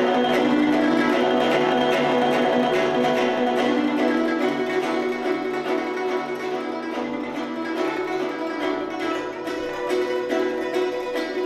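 Guzheng (Chinese zither) playing fast, rapidly repeated plucked strokes over ringing sustained notes, with the strokes growing denser in the second half.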